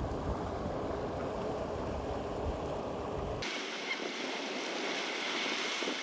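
Wind rumbling on the microphone over the wash of water, with a faint steady hum underneath. About three and a half seconds in the sound changes abruptly to a thinner, hissier wash with the low rumble gone.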